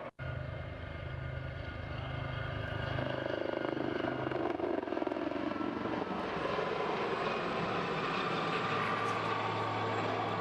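Aircraft engine noise: a steady hum that grows louder over a few seconds. The recording cuts out for an instant at the very start.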